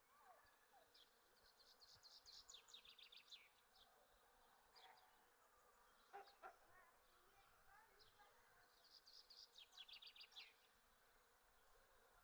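Honey bees buzzing faintly, with two bursts of rapid high trills, one a couple of seconds in and one near the end.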